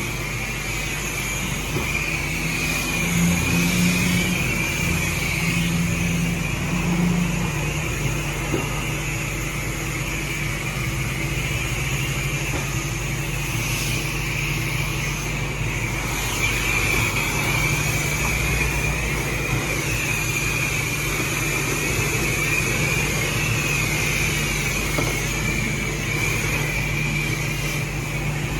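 Steady mechanical running noise at a self-serve car wash, a constant low hum under a wavering high hiss, as from the high-pressure washer pump and spray.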